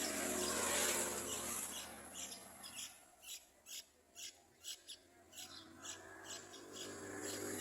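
Yellow-vented bulbul nestlings giving their begging calls for food: a rapid series of short, high-pitched cheeps, about four a second.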